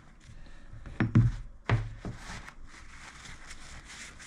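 Brass parts being wiped clean with a towel: faint rubbing and rustling, with two sharp knocks about a second in and again shortly after as the pieces are handled on the bench.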